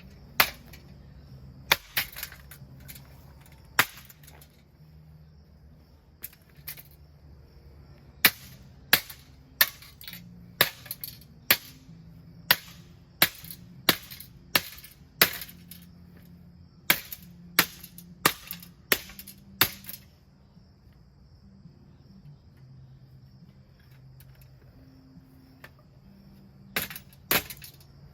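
A ceiling fan being struck again and again with a baseball bat: a long run of sharp hits, coming fast through the middle, a pause, then two more near the end. Crickets chirp steadily behind.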